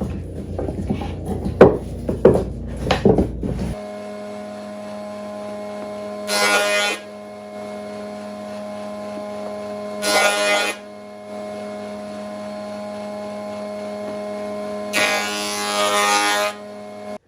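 Wooden blocks knocking and clattering for the first few seconds. After a sudden change comes a power planer running with a steady hum, which turns into a louder cutting noise three times as small driftwood blocks are fed through. The last cut is the longest.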